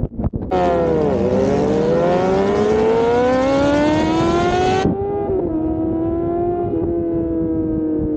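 Sport motorcycle engine accelerating: its pitch dips briefly, then climbs steadily for about four seconds. After an abrupt cut it runs on at a steadier, slowly falling pitch.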